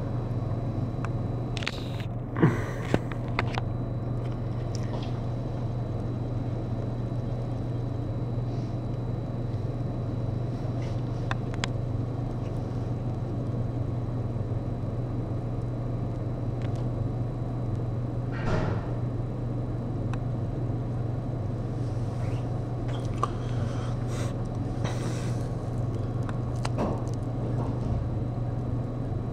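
Intermodal freight train rolling by, a steady low rumble, with a few sharp knocks about two to three seconds in and a brief swell of noise about eighteen seconds in.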